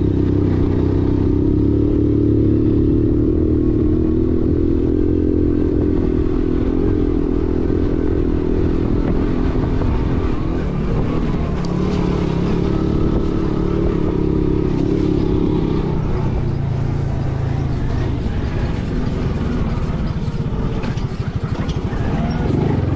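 A vehicle's engine running steadily while under way, its note dropping lower about two-thirds of the way through, with some knocks near the end.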